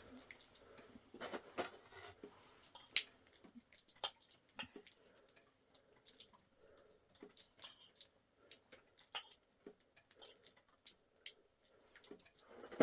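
Faint, irregular small clicks and taps of a spoon or other cutlery against a dish while someone eats.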